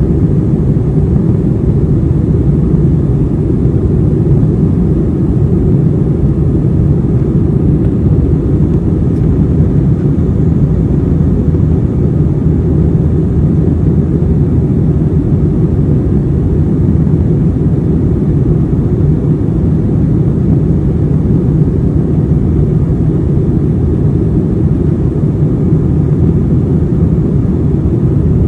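Steady low rumble of an Airbus A321's engines and airflow heard inside the passenger cabin, holding even throughout.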